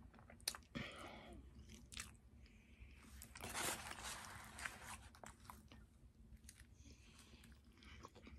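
A person chewing and eating food close to the microphone: faint wet mouth clicks and chewing, with a louder noisy burst about three and a half seconds in.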